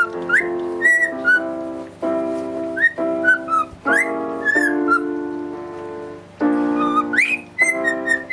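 A pet bird whistling short swooping and rising notes over music whose held chords change about once a second.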